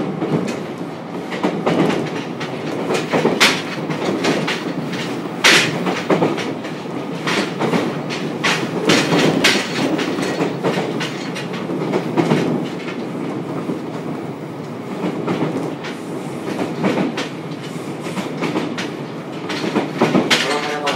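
Running noise heard inside the motor car of a JR Kyushu 303 series electric train: a steady rumble of wheels on the rails, broken by frequent sharp clicks as the wheels pass over rail joints.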